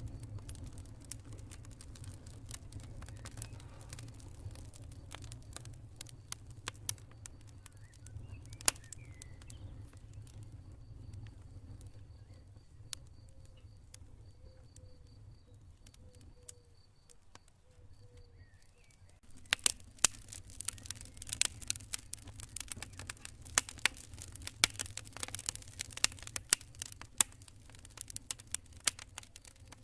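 Campfire crackling and popping over a steady low rumble, the pops growing much busier and louder past the middle. In the quieter stretch before that, crickets chirp faintly in an even pulse.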